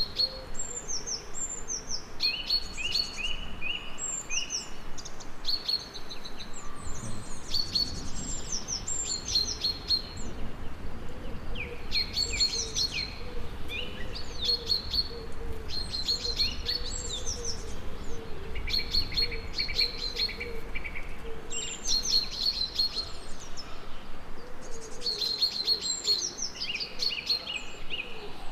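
Several songbirds chirping and trilling, their short calls overlapping, with a soft low rumble underneath.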